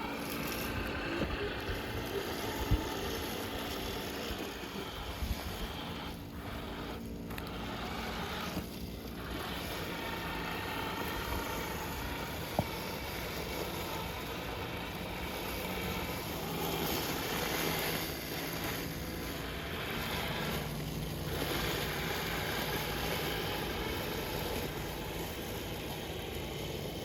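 Steady outdoor noise with wind buffeting the microphone over a faint low hum, broken by a few brief clicks.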